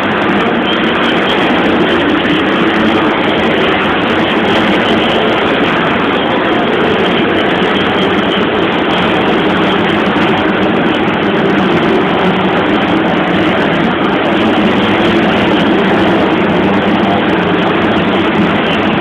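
Motocross dirt bike engines running together in a steady, loud din.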